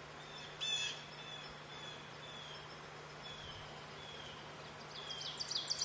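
Songbirds calling: a short sharp call about half a second in, soft down-slurred whistles repeated every half second or so, then a loud, fast run of descending notes, about six a second, near the end.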